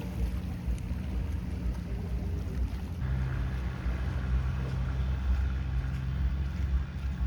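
An engine running with a steady low rumble. A second, steadier engine hum sets in about three seconds in.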